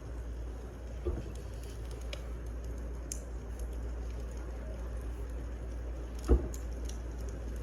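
Wood fire crackling steadily, with scattered sharp pops and one louder, deeper thump about six seconds in.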